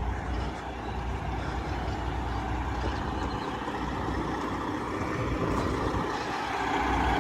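Semi truck's diesel engine running, a steady low rumble that grows a little louder near the end.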